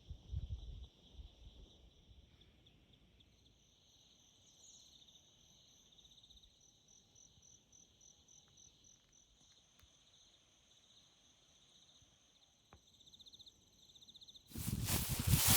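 Insects chirring steadily in two high-pitched layers, one with a faint pulsing, with a few low thumps at the start. About fourteen and a half seconds in, a loud rustling noise breaks in abruptly.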